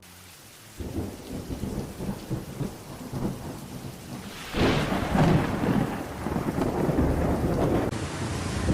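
Thunderstorm: heavy rain with rumbling thunder, swelling into a louder roll of thunder about halfway through.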